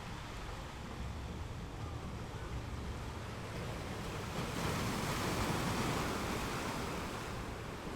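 Ocean waves breaking on a shore: a steady wash of surf with a low rumble, and one louder wave surging about halfway through that fades again near the end.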